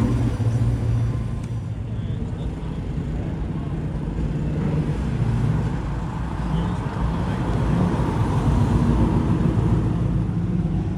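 Classic car engines running as the cars drive slowly past, a steady low engine rumble that swells a little late on.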